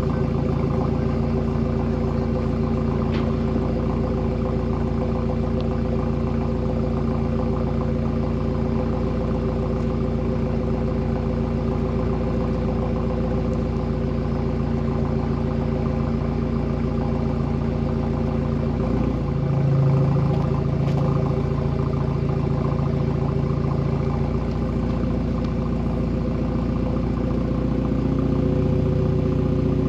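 Car engine idling steadily. About two-thirds of the way through the note shifts and swells briefly, and near the end it settles a little higher.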